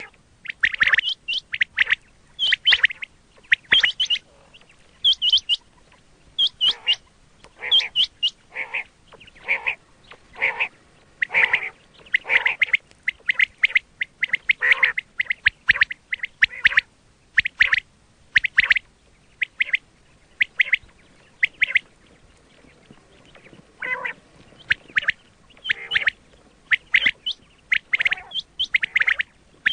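Quail calling: short, sharp calls repeated about once or twice a second, with a brief pause about three quarters of the way through. A calling recording of the kind used to lure quail when hunting.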